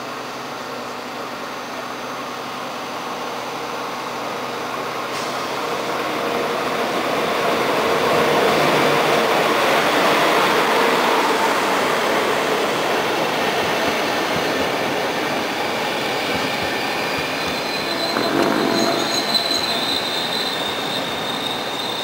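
A train running along the station track, getting louder over the first eight seconds and staying loud, with a thin high squeal from the wheels coming in near the end.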